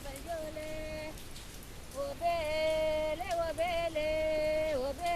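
Steady rain falling, with a melody of long held notes and a few gliding turns laid over it, growing louder about two seconds in.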